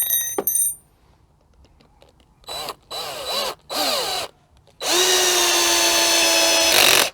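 Parkside cordless drill-driver motor driving a 100 mm screw with a T30 bit. It starts with a few short trigger pulses, the motor pitch rising and falling, then a steady run of about two seconds under load that stops abruptly near the end.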